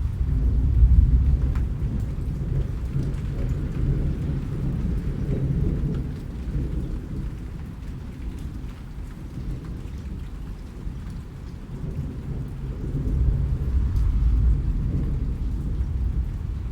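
Rain falling with a low rolling rumble of thunder that swells about a second in and again near the end.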